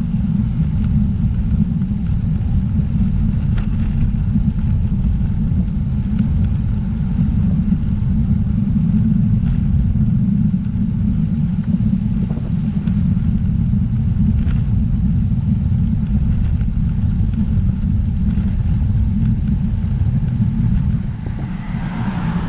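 Wind buffeting the microphone of a road bike descending a hill at speed: a steady, loud low rumble.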